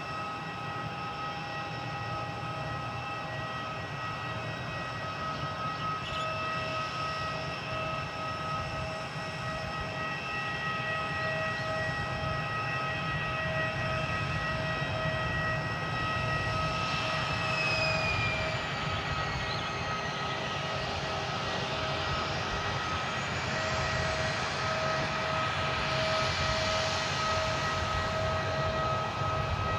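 Airliner engines running with several steady whining tones over a low rumble, growing louder. A little past halfway one whine drops in pitch.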